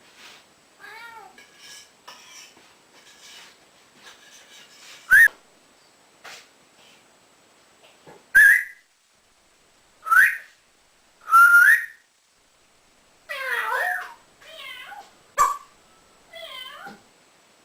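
African grey parrot whistling and mimicking a cat: faint calls at first, then a string of short loud whistles that slide upward, followed near the end by several wavering, meow-like calls.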